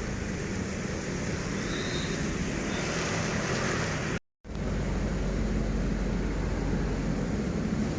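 Heavy rain pounding steadily on a campervan's roof, with gusting wind. The sound cuts out completely for a moment about four seconds in, then carries on.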